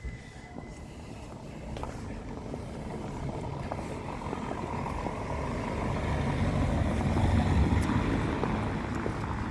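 A motor vehicle approaching and passing close by: a low rumble that builds steadily to its loudest about seven to eight seconds in, then starts to ease off.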